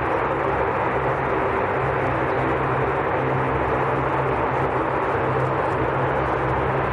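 Aircraft engines running steadily: a constant, unchanging noise with a low hum beneath it and no rise or fall in pitch.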